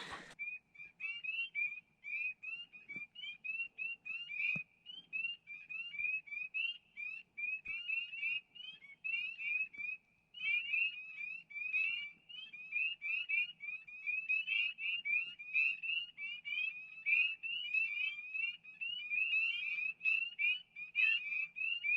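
A chorus of many frogs calling at once: short, high, rising peeps that overlap densely, several every second, without a break.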